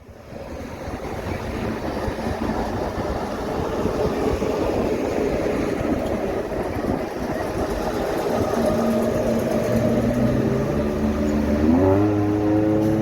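Passing truck traffic: engine and tyre noise that builds up over the first few seconds, with one engine's note rising in pitch about two-thirds of the way in as it accelerates.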